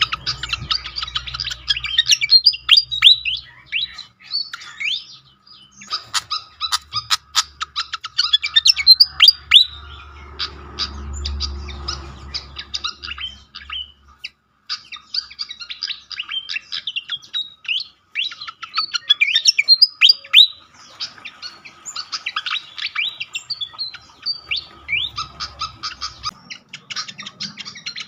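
Malaysian pied fantail song played as a lure: rapid squeaky chirps and short downward-sliding whistles in busy bursts, with brief pauses between them.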